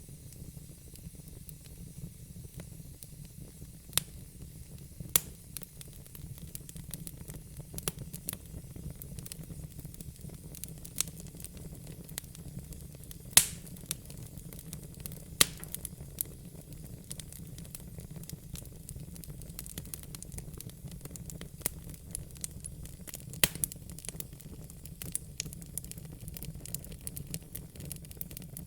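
Wood fire in a fire pit crackling: many irregular sharp pops and snaps, the loudest about thirteen seconds in, over a steady low rumble and faint hiss.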